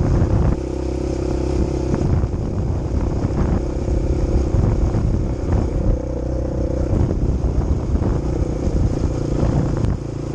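Quad bike engine running steadily under way, with frequent knocks and rattles; just before the end the engine note drops.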